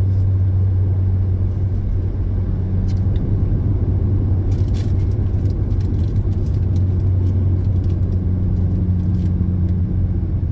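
Steady low drone of a car driving, heard from inside the cabin: engine and road noise with a constant low hum, with a few faint ticks.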